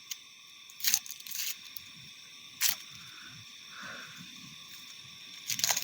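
A few short, sharp clicks and scrapes of small objects being handled, over a steady faint high-pitched background hum.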